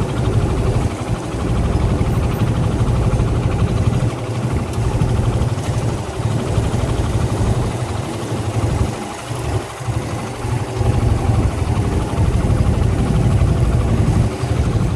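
A vehicle engine running steadily with a strong low rumble.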